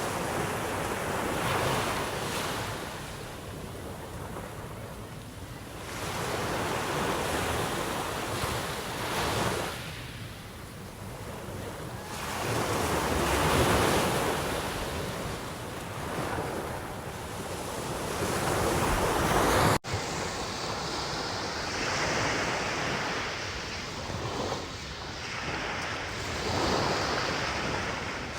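Sea waves breaking on the shore and washing back, surging every few seconds, with wind on the microphone. The sound cuts abruptly about two-thirds of the way through and carries on with a duller tone.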